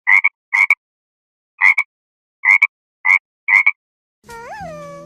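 A frog croaking: six short, loud croaks at uneven intervals, each split into two quick parts. Near the end a different sound starts, a repeated pitched call that rises and then falls.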